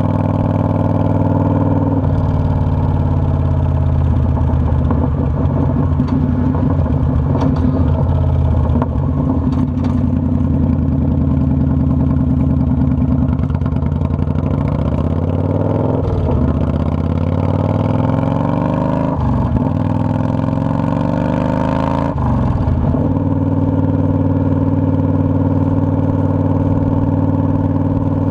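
Motorcycle engine running, recorded by a camera mounted on the bike. The note holds steady at first, then climbs and falls back sharply three times in the middle, then settles to a steady note again.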